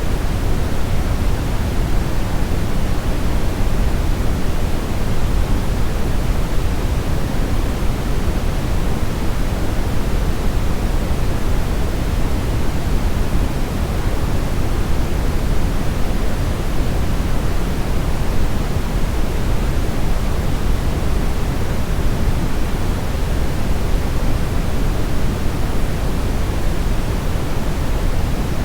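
Steady brown noise: an even, unchanging rumbling hiss, heaviest in the deep bass and falling off toward the highs.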